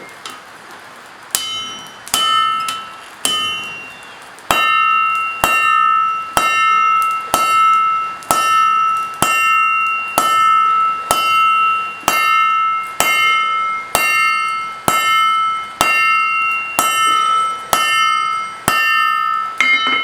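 Hammer blows on a steel anvil, each leaving a bright metallic ring. A few irregular strikes come in the first few seconds, then a steady rhythm of about one blow a second, as in hand-forging the steel.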